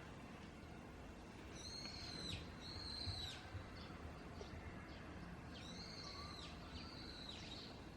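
A bird calling faintly, two pairs of high, arched notes, each under a second long, one pair about two seconds in and another near the end, over a steady low room hum.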